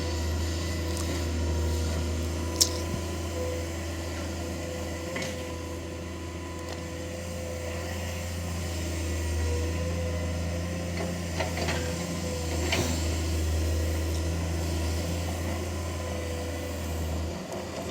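Excavator's diesel engine running steadily with a constant low drone and a steady hydraulic pump whine. A single sharp knock comes about two and a half seconds in, and a few light clicks follow near the middle.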